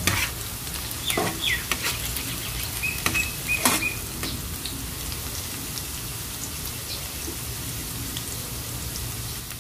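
Chopped garlic and ginger sizzling steadily in hot oil in a metal wok as the garlic is sautéed toward golden brown. In the first four seconds a utensil scrapes, clicks and squeaks against the pan as it is stirred; after that the sizzle goes on evenly.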